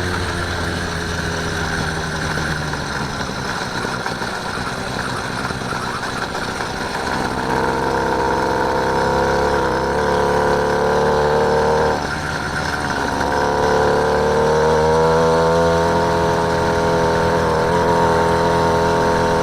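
Small engine of a motorised bike running under way. It revs up about seven seconds in, eases off briefly near twelve seconds, then picks up again and holds a higher, steady pitch.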